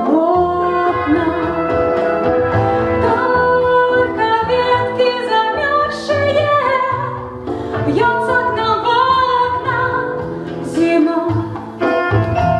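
A song: a voice singing a melody over an instrumental accompaniment with a steady bass pulse.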